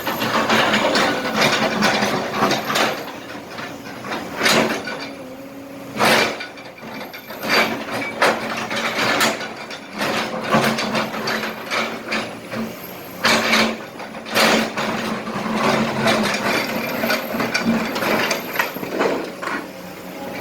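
Kobelco SK200 hydraulic excavator at work: its diesel engine runs steadily under an irregular string of clattering knocks and scrapes from broken asphalt and small rocks in the bucket, with a few louder bangs.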